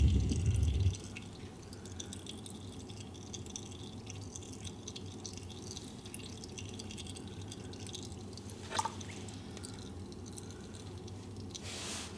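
Warm engine oil draining from the drain plug holes of a Ski-Doo 900 ACE snowmobile engine, trickling and dripping steadily into a drain pan. A low rumble fills the first second, and a brief squeak comes about nine seconds in.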